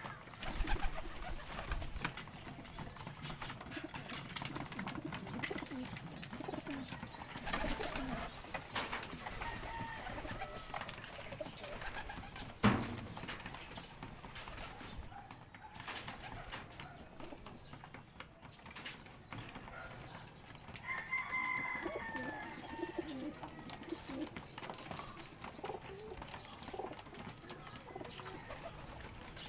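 A flock of birds at feeding time: low cooing, wings flapping and scattered high chirps, with one sharp knock about halfway through.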